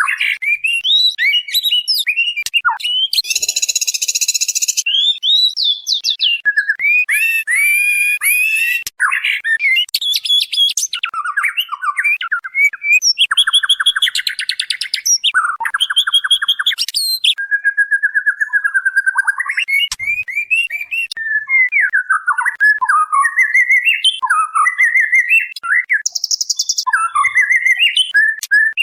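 White-rumped shama singing without pause: a varied run of clear rising and falling whistles, rapid trills and several harsh buzzy notes, sold as the female's call to males.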